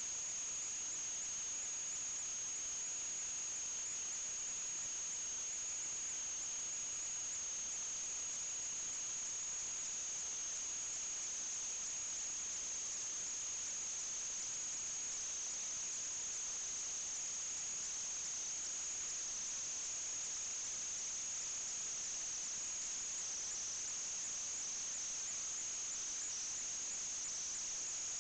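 A steady high-pitched whine over an even hiss, unchanging throughout.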